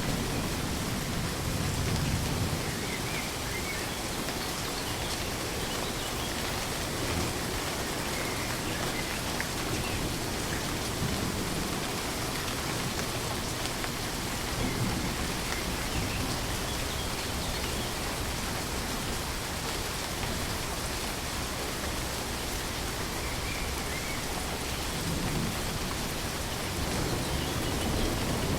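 Steady rain falling on a surface, an even dense hiss. A low thunder rumble fades out about two seconds in, and another builds near the end.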